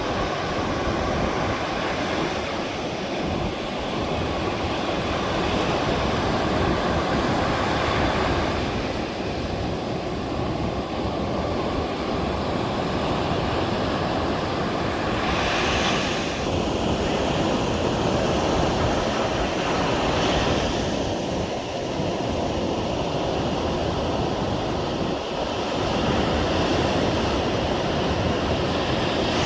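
Caribbean Sea surf breaking and washing up a beach: a continuous rush of water with swelling, crashing waves. The sea is rough with a storm approaching.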